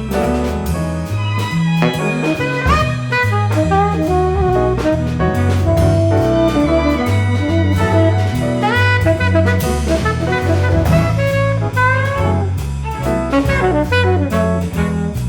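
A jazz waltz played live, with a tenor saxophone carrying a melodic line full of scoops and slides over double bass, drum kit and piano.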